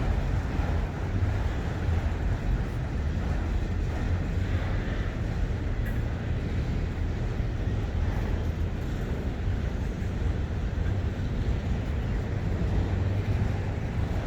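Steady low rumble of a Norfolk Southern freight train hauled by diesel locomotives, with no clear changes or impacts.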